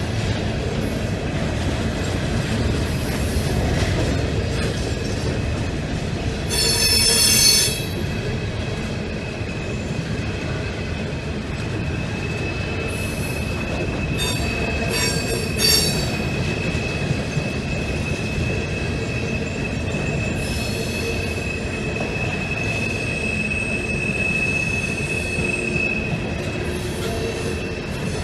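Freight train rolling past with a steady rumble of railcars and wheels squealing on the rails. There are short shrill squeals about a quarter of the way in and again near the middle, and a thin steady squeal holds through much of the second half.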